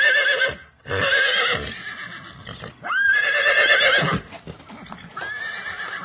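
A horse whinnying: four loud, wavering neighs in a row, each about a second long with short gaps between. Faint clicks follow the third neigh.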